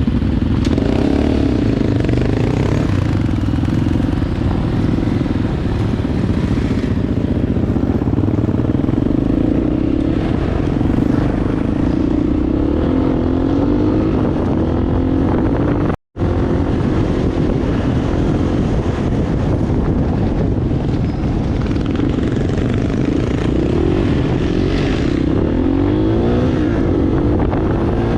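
Enduro motorcycle engine running under way, its pitch rising and falling with the throttle, mixed with rushing wind on the microphone. The sound cuts out for a moment about halfway through.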